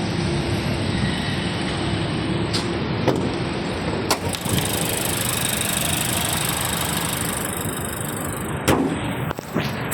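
Honda Shuttle 1.5G's engine idling steadily, with a few sharp clicks over the top.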